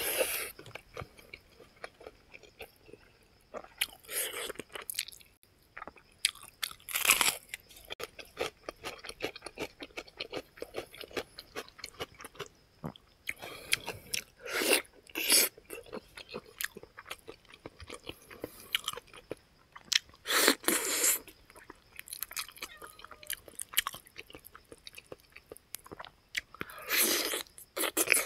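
Chewing and biting of fried pig feet and rice eaten by hand: a steady run of wet mouth clicks and smacks, with about six louder bites spread through.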